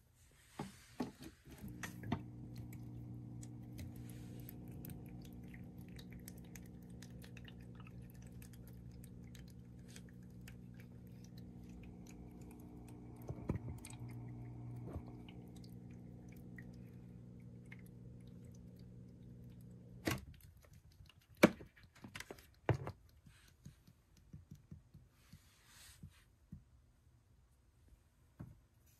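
Small electric pet water fountain pump humming steadily, then cutting off abruptly. A few sharp clicks and knocks follow.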